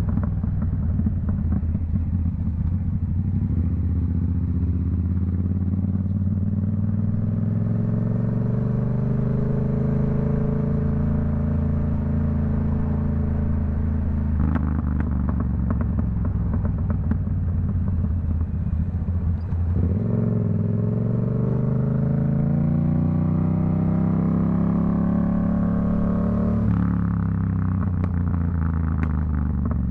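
Yamaha MT-07's CP2 crossplane parallel-twin, running through a Black Widow aftermarket exhaust, pulling hard with its pitch climbing through the gears. The revs drop sharply about halfway and again about two-thirds through. Near the end the revs fall away with a rattle of crackling exhaust pops on the overrun.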